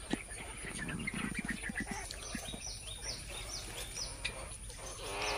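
Small cage birds in a mixed aviary chirping: short, high, downward-sliding calls repeating about twice a second.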